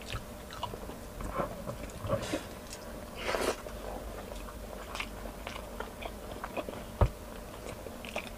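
Close-miked eating sounds of a person chewing a mouthful of rice and saucy chicken caldereta: wet chewing with scattered clicks and lip smacks. A brief louder noisy sound comes a little over three seconds in, and a single dull knock about seven seconds in.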